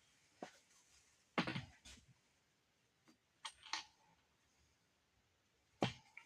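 Scattered knocks and clunks of wooden boards being handled while a small box is put together, the loudest a short clatter about a second and a half in and a single sharp knock near the end.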